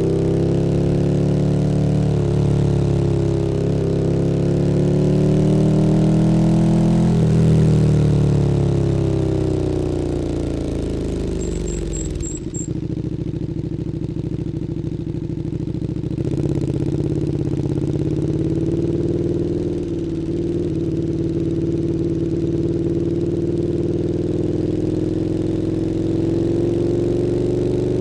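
KTM 1290 Super Duke R's V-twin through an Akrapovič Evolution Line exhaust. The engine note rises and falls with the throttle, winds down from about seven seconds in, then settles into a steady lower running note for the rest.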